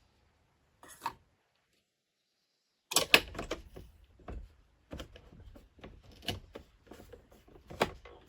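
A short click about a second in, then from about three seconds a busy, irregular run of clicks and knocks. The loudest come around three seconds and near the end.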